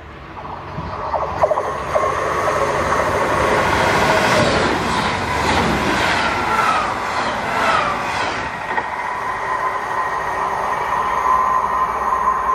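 Passenger train rushing through the station at speed on the near track without stopping. The wheel and air roar builds quickly, with a few sharp wheel clicks about a second and a half in. Whining tones fall in pitch as the train goes by, and the roar stays loud as it runs off.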